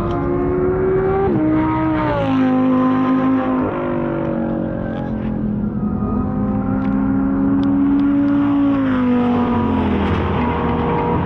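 Sports car engine driven hard on a race track: its note climbs and drops sharply at each upshift over the first few seconds, climbs in one long pull, then falls away near the end as the car slows.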